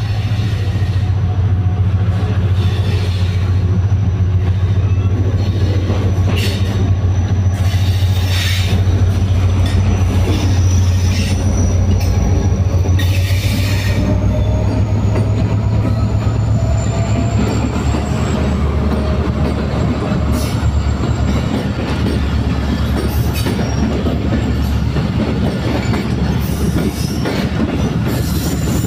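A diesel locomotive pulling away with a passenger train goes close by, its engine droning steadily. From about eighteen seconds in the drone gives way to the coaches rolling past, wheels clattering on the rail joints, with a thin high wheel squeal.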